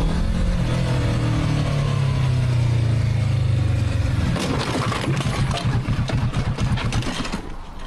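Motorcycle engine running at a steady pitch that eases slightly downward, as when rolling off the throttle. A little over four seconds in, it gives way to about three seconds of rough, clattering noise with scattered knocks.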